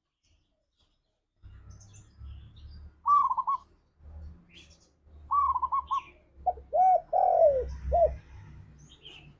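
Spotted dove cooing: after a short silence, two quick trilled phrases, then a run of four arched coos, one of them longer and falling in pitch, over a faint low rumble.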